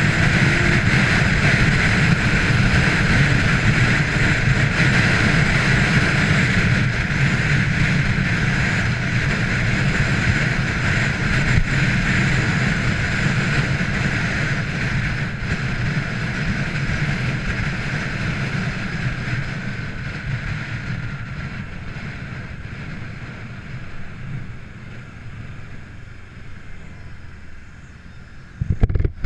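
Kawasaki Ninja 300 motorcycle ridden at speed: heavy wind rush on the microphone over engine and road noise, dying down steadily through the second half as the bike slows. A single sharp thump comes near the end.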